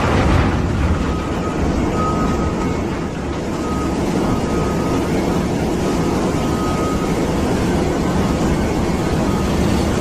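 Komatsu 930E mining haul truck's diesel engine running steadily, a loud dense low rumble, with faint short high tones now and then.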